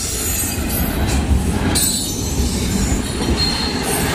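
Norfolk Southern double-stack intermodal freight train rolling past close by, a steady loud rumble of steel wheels on rail with high, thin wheel squeal coming and going over it.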